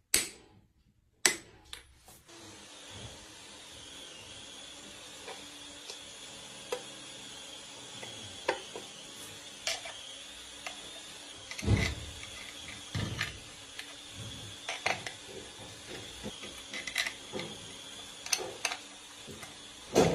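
Scattered metallic clicks and knocks of hand tools being worked, over a steady hiss with a faint high whine.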